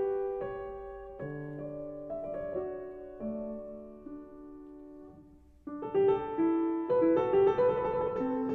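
Background piano music: slow, held notes that fade and thin out towards the middle, then fuller playing resumes about two thirds of the way through.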